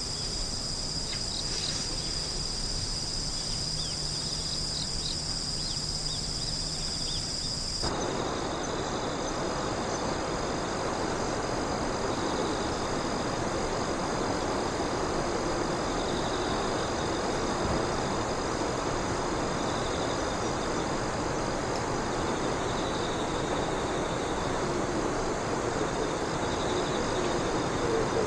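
A chorus of crickets and other insects trilling steadily in high, continuous tones. About eight seconds in, a steady rushing noise comes in abruptly beneath them and continues.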